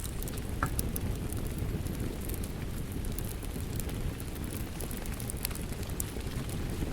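Steady water noise: a low rush with scattered light crackling drops. A brief chirp-like note sounds about half a second in.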